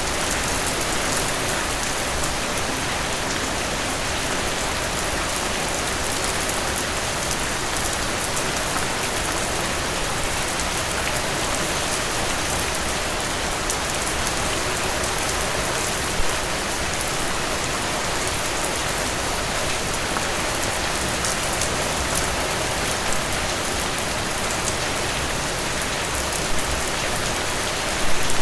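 Steady rain falling, an even hiss with fine patter of drops, and a few louder single drops about halfway and near the end.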